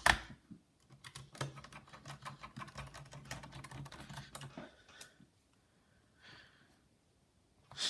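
Rapid small clicks and ticks of a precision screwdriver turning screws into a laptop's plastic and metal chassis, with a low steady hum under them for a few seconds. The clicking stops after about four and a half seconds and the rest is nearly quiet.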